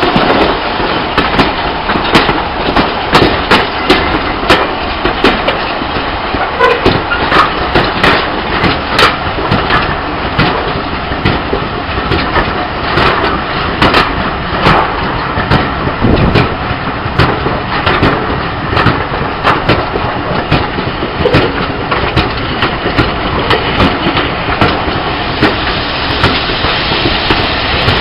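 Coach wheels clattering over pointwork and rail joints as a diesel-hauled train moves, a steady rumble broken by many irregular sharp clicks and knocks. The Class 46 Peak diesel D182 is running at the head of the train.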